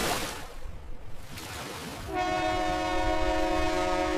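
A rushing noise swells, then about two seconds in a ship's horn starts one long, steady blast.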